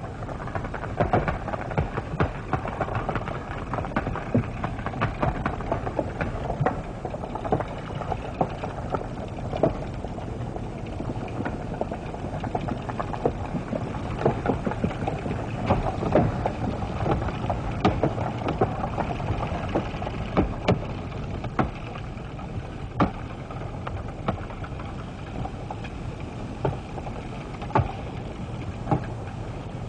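Lava erupting under the sea: a steady low rushing noise dense with sharp cracks and pops, many every second.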